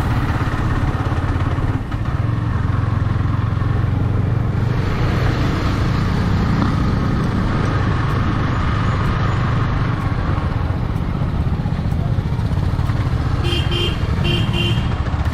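Motorcycle under way, its single-cylinder Yamaha R15 V3 engine running steadily under a heavy wash of wind and road noise, which grows a little fuller about five seconds in. Near the end, two quick pairs of short high beeps.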